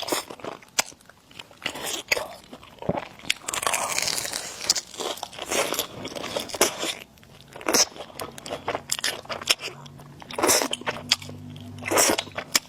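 Close-miked mukbang eating sounds: a person chewing and biting noodles and egg, with many irregular sharp mouth clicks and smacks.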